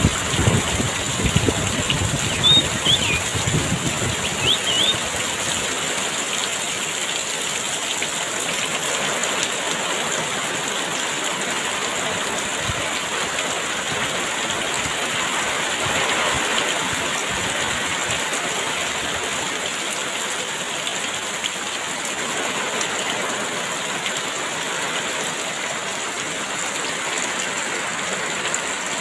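Heavy rain falling in a steady downpour. Gusts of wind rumble through the first few seconds and die away, and a bird chirps briefly a few times early on.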